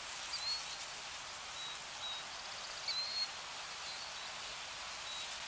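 Steady hiss of rain, with short, high bird chirps scattered through it.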